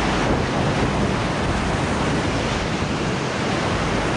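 Steady rush of whitewater on a river rapid, an even, unbroken noise with no pauses.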